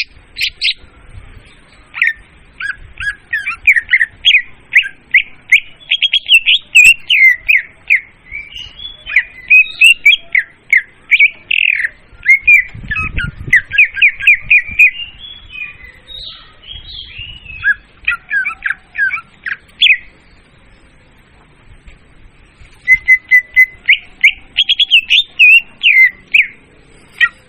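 Leafbird (murai daun) song played as a bird lure: long runs of rapid, varied chirps and squeaky notes, with a pause of a few seconds about two-thirds of the way through before the song resumes.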